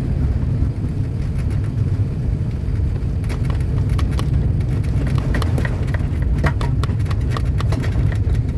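Cabin noise aboard an Airbus A380 on landing: a steady low rumble, joined from about three seconds in by scattered clicks and rattles.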